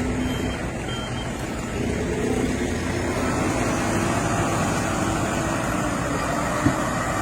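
A palm-oil truck's engine running steadily, with one short knock near the end.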